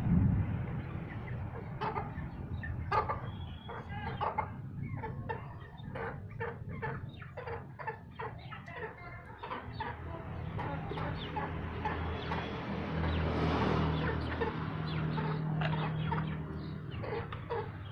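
Chickens clucking in short, rapid calls, several a second. In the second half a low engine hum swells and fades, as of a motor vehicle passing.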